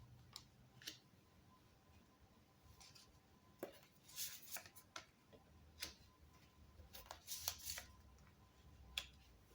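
Tarot cards being handled: faint, scattered rustles and soft card slaps, a few at a time, against a quiet room.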